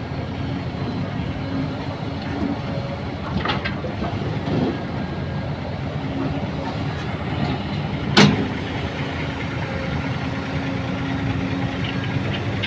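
Heavy engine running steadily with a low rumble, a few knocks, and one sharp metallic clank about eight seconds in.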